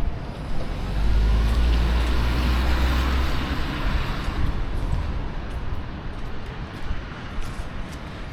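A motor vehicle passes on a wet street: a low engine rumble with tyre hiss swells about a second in, then fades away over the next few seconds.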